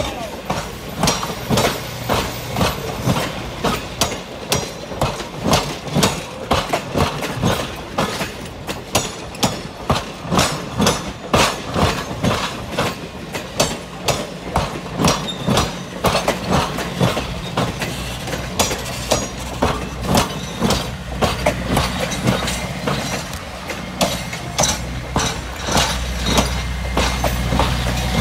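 Passenger coaches of a slow train rolling past close by, their wheels clicking and knocking over the rail joints in a steady clickety-clack. Near the end the low drone of the trailing diesel locomotive's engine grows louder as it comes up.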